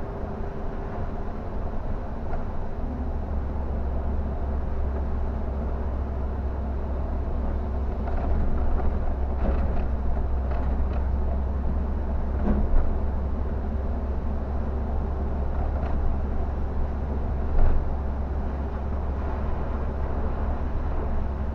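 Scania K360 bus on the move: a steady low engine drone under even road noise, with two brief knocks, one near the middle and one a few seconds later.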